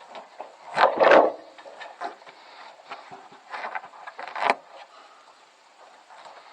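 Bags of bird seed being handled: a few short rustles and knocks, the loudest about a second in and two more about halfway through.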